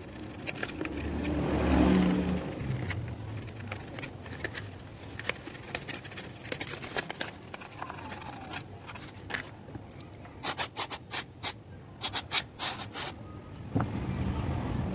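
Small clicks, scrapes and rubbing from handling and cleaning a car's power window switch connector, followed by a quick run of about ten short, sharp bursts between about 10 and 13 seconds in. A low rumble swells and fades about two seconds in.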